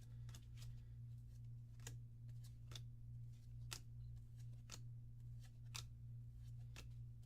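Trading cards being flipped through one at a time from a freshly opened booster pack: a soft, sharp card flick about twice a second over a low steady hum.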